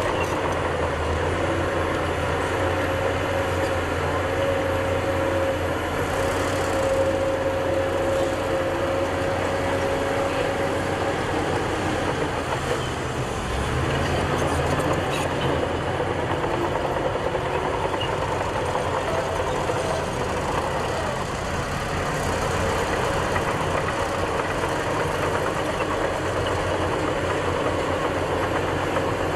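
Heavy diesel earthmoving machinery running steadily, with a steady high whine from about two to eleven seconds in.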